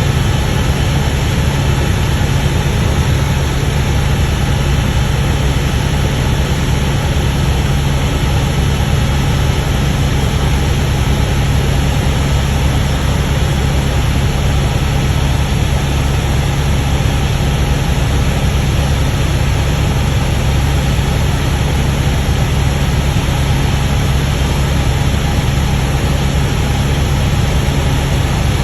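Helicopter in flight: a steady, unbroken drone of engine and rotor, strongest in a low hum.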